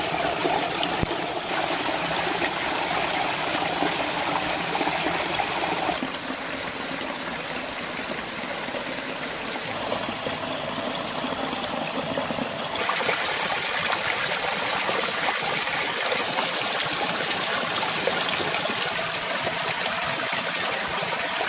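Running water of a stream, a steady trickling and rushing hiss whose character changes abruptly about six and about thirteen seconds in.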